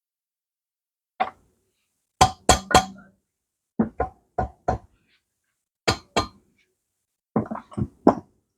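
Sharp metallic clinks and knocks of a tool striking metal, about a dozen strikes in short groups of two to four with pauses between.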